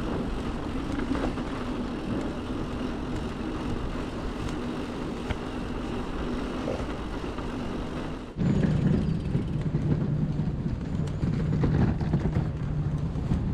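Wind and road noise on the microphone of a moving electric mountain bike, with city traffic around. The sound dips sharply about eight seconds in, then picks up again with a steady low hum under the noise.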